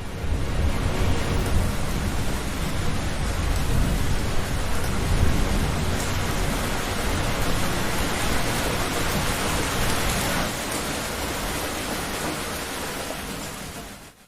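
Heavy rain pouring with the low rumble of rolling thunder underneath. It fades out over the last couple of seconds.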